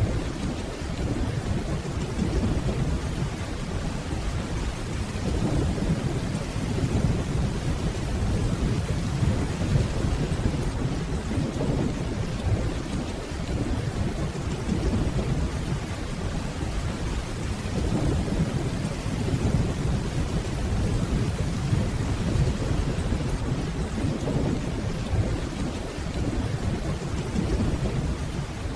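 Steady heavy rainfall with low, distant rolling thunder that swells and fades several times.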